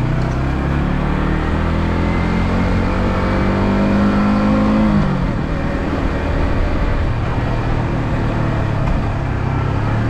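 Yamaha R15M's single-cylinder engine, on its stock exhaust, revving up under acceleration with the pitch rising for about four seconds. The pitch drops sharply about five seconds in, leaving mostly wind rush, and the engine's low note returns near the end.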